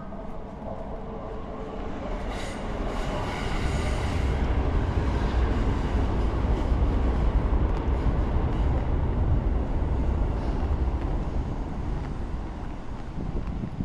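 A Keisei electric train passing along the line: a low rumble and wheel noise that swells over the first few seconds, holds loud through the middle, and fades near the end.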